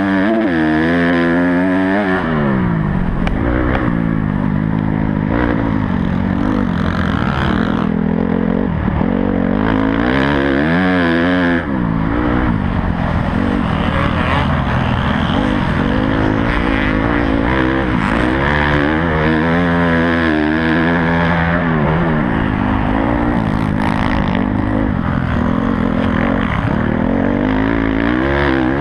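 Honda CRF250 four-stroke single-cylinder dirt bike engine ridden hard on a motocross track. It revs up and falls off again and again through gear changes, jumps and corners.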